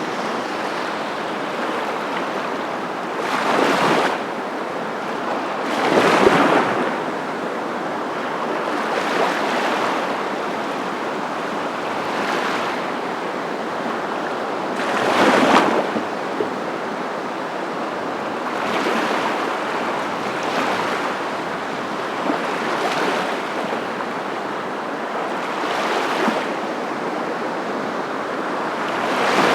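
Surf: a steady rush of ocean waves, swelling every few seconds as waves break, the biggest ones about 4, 6 and 15 seconds in and again at the very end.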